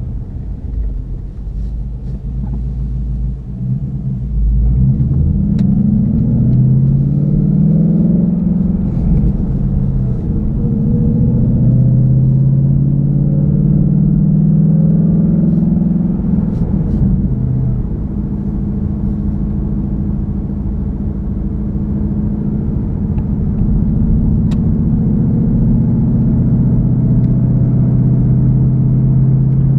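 2016 Mustang GT's 5.0-litre V8 through a Borla S-Type cat-back exhaust, driving: about four seconds in it gets louder and rises in pitch under acceleration, then settles into a steady low drone at cruise.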